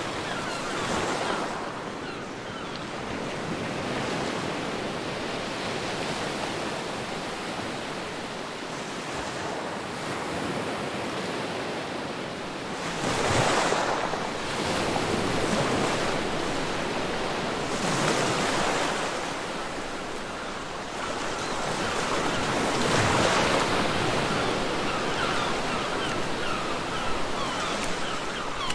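Ocean surf washing steadily onto a beach, with several bigger waves breaking in the second half, about five seconds apart.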